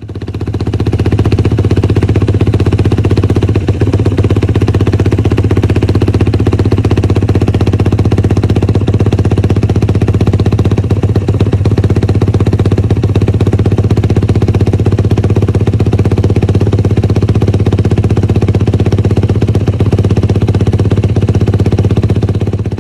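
Yamaha YFZ450R quad's single-cylinder four-stroke engine idling steadily through an RP Race aftermarket exhaust.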